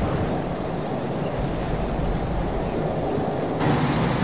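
Steady rushing roar of a high-speed train speeding past, changing character about three and a half seconds in.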